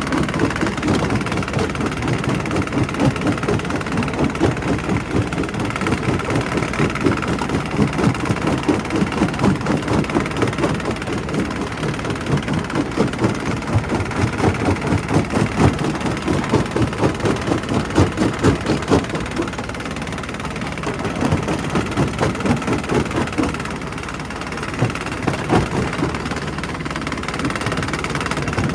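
Primary rock crusher running under load: a steady heavy machine drone with a dense, irregular clatter of rock cracking and knocking as stone is crushed, easing briefly twice in the second half.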